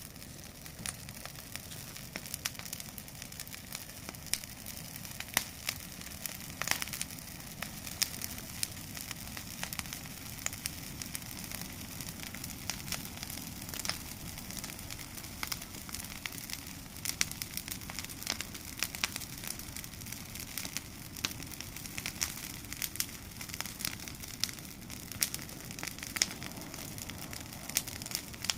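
Bonfire of cleared vegetable-field waste crackling, with frequent irregular sharp pops over a low steady rush of flames.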